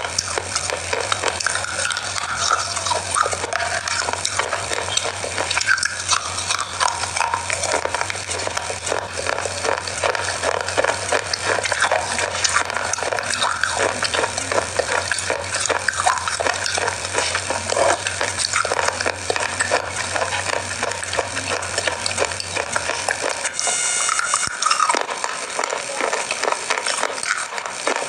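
Close-up biting and chewing of hard, crumbly grooved bars: a loud, dense crackle of many small crunches. A low steady hum underneath stops near the end.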